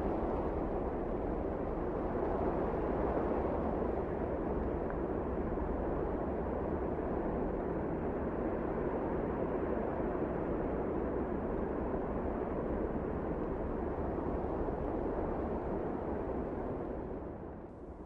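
Wind blowing steadily, a deep, even rushing noise that dips briefly near the end.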